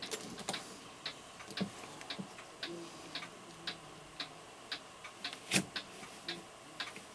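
Mechanical clock ticking steadily, about two ticks a second.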